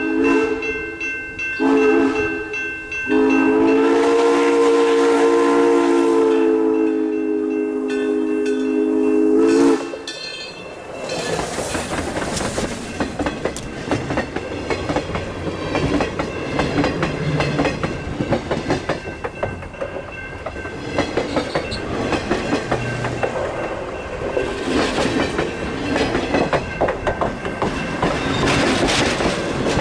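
Steam locomotive #1702's chime whistle sounding for the grade crossing: a short blast, then a long one held for about seven seconds. It stops near ten seconds in, and the train's wheels then rumble and clatter over the rails right beside the track as the cars roll past.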